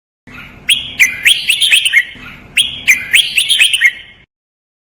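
Red-whiskered bulbul singing the same quick phrase of several bright notes twice in a row, with a short pause between; the recording starts and stops abruptly.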